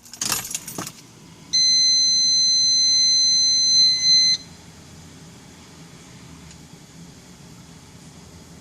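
A few clicks, then a car's warning buzzer sounds one steady, high beep for about three seconds as the ignition is switched on ahead of a cold start. A faint low hum follows.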